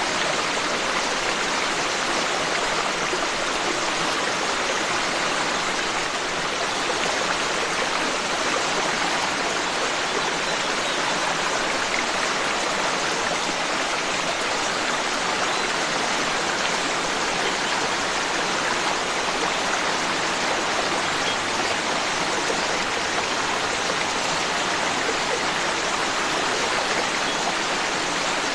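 Forest stream flowing steadily: a constant, even rush of running water.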